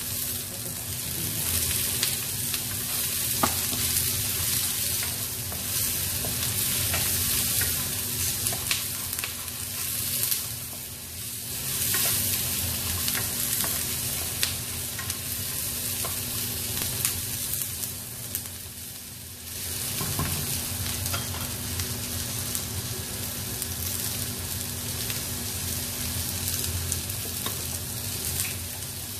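Sliced onions, garlic and chopped red and green peppers sizzling in hot oil in a frying pan, stirred with a wooden spatula that scrapes and taps against the pan. The sizzle dips briefly about two-thirds of the way through, then picks up again.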